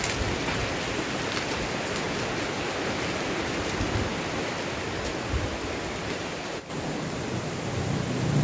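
Heavy tropical rain falling steadily, a dense, even hiss of rain.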